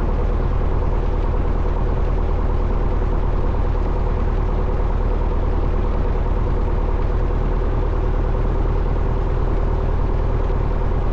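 1972 Cessna Skyhawk's four-cylinder piston engine and propeller running steadily at low taxi power.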